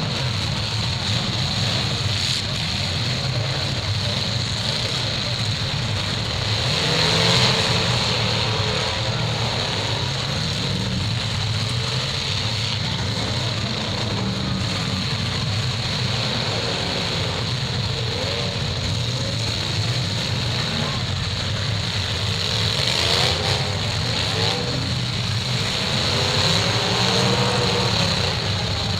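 Several demolition derby cars' engines running and revving together in a steady loud rumble, with the pitch rising and falling as drivers accelerate. It swells louder about seven seconds in and again near the end.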